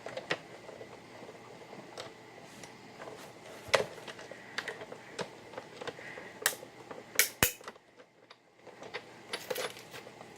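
Big Shot die-cutting and embossing machine being hand-cranked to run cardstock and an embossing plate through the rollers, with a series of sharp clicks and knocks. The loudest come about four seconds in and around seven seconds.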